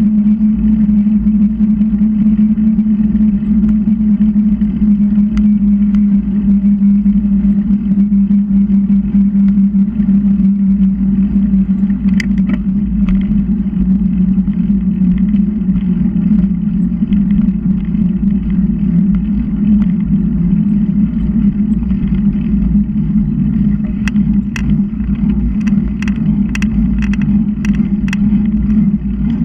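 Steady wind and road noise from a bicycle ride, a loud low rumble with a constant hum. There is a run of sharp clicks or rattles over the last few seconds.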